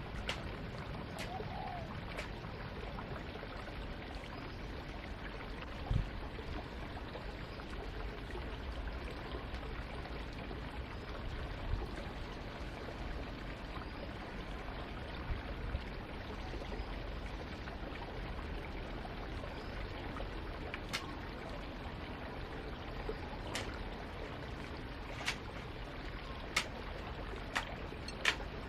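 Steady running, trickling water, with a few sharp light clicks and knocks scattered through it, most of them near the end.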